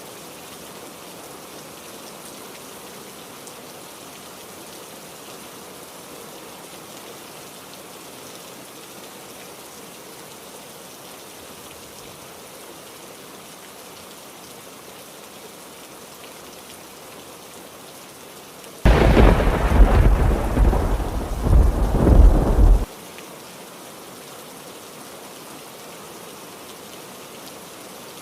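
Steady heavy rain, with a loud thunderclap about two-thirds of the way through that starts suddenly, lasts about four seconds, and cuts off abruptly.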